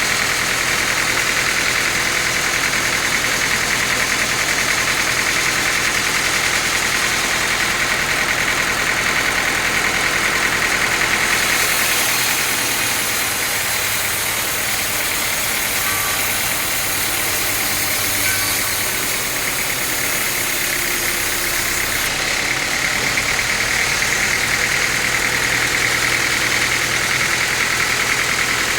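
Sawmill saw machine running steadily while sawing teak wood. About twelve seconds in, the sound turns hissier for roughly ten seconds, then settles back.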